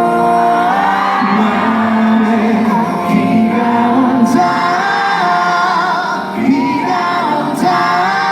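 Live music in a large concert hall: a slow ballad with long held sung notes over instrumental accompaniment.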